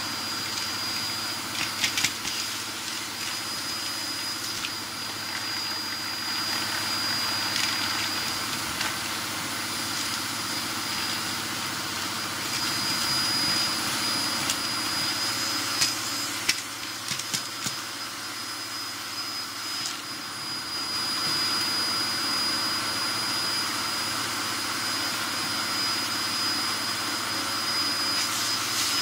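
Hoover Performer Pet upright vacuum cleaner running steadily with a high, constant whine while it sucks up fireplace ash, with a few sharp clicks of debris or the nozzle knocking, the loudest about 16 seconds in.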